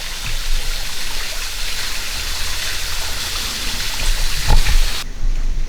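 A small waterfall with a light flow, splashing down in a steady rush. About five seconds in the hiss suddenly thins out.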